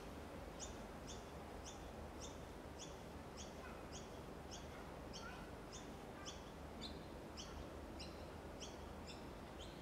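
Faint chirping of a small bird, short repeated chirps about two a second, over a low steady hiss.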